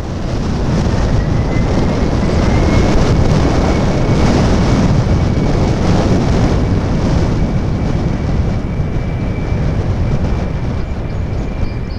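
Jet airliner's engines: a broad rush that builds over the first few seconds and holds, with a thin steady whine above it, mixed with wind buffeting the microphone.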